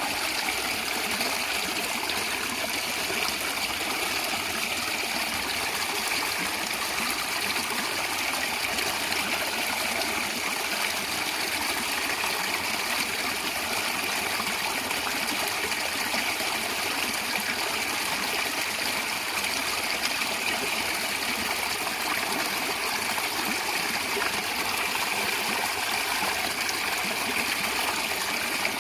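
A stream of water running and gurgling steadily.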